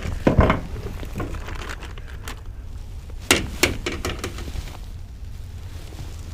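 Handling noises: a few short knocks and clicks, the loudest about a third of a second in and a pair around three and a half seconds in, over a low steady rumble.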